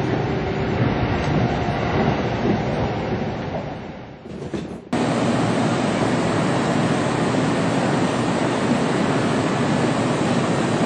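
Kintetsu commuter train heard from inside the car, its running noise fading over about four seconds as it slows for the station. At about five seconds the sound cuts off abruptly into a steady, even noise with no distinct events.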